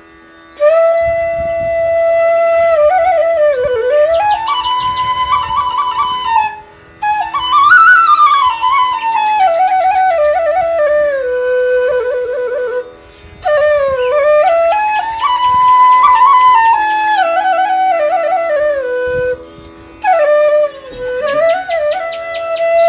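Background music: a solo flute playing a slow melody in four phrases, with long held notes and gliding runs, over a steady drone.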